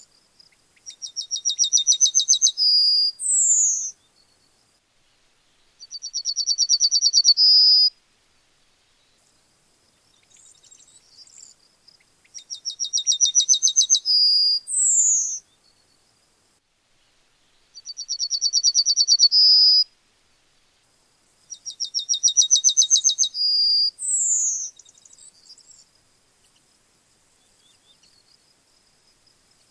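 Yellowhammer singing its song five times, with a few seconds between songs. Each song is a fast run of repeated high notes, and three of them end in a drawn-out note and a short falling note.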